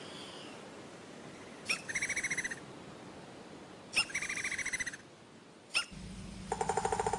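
A bird calling: a sharp note followed by a quick trill, twice, about two seconds apart, then a single sharp note. Music comes in near the end.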